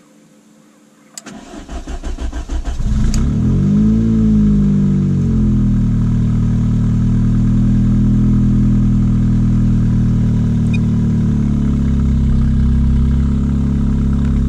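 Car engine cranked by the starter for about a second and a half, then catching, flaring up in revs and settling into a steady idle that drops slightly lower near the end. It is starting on a blend of about 65% ethanol and 35% gasoline, under a FuelTech FT600 ECU's flex-fuel calibration.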